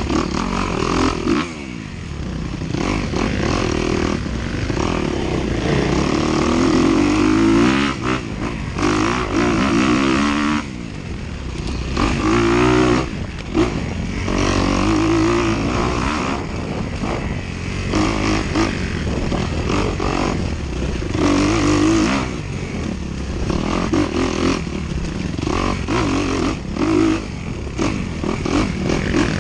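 Dirt bike engine heard from the rider's own camera, revving up and falling back again and again as the throttle is worked. Its pitch sweeps up and down every second or two, with short dips around the middle, over a constant rushing and rattling noise.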